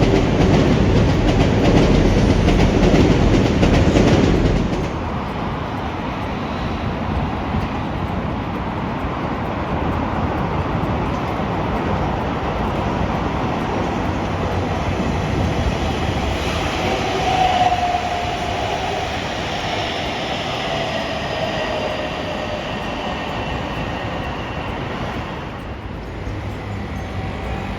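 A train running past on the rails: loud for the first four or five seconds, then a steadier, quieter rolling sound. From about halfway through, a high wheel or brake squeal comes and goes for several seconds.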